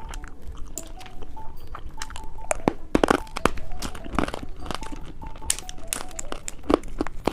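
Close-miked biting and chewing of small gummy candies: a run of irregular sharp, crunchy bites and wet chews, busiest about halfway through.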